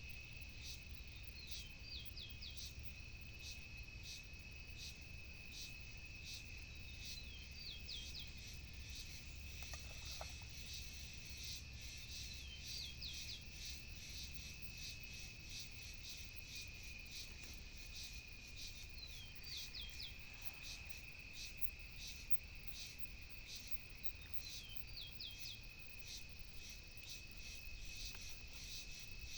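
Outdoor insect and bird chorus: a steady high insect trill runs throughout, with small groups of short rising bird chirps every few seconds, over a low rumble.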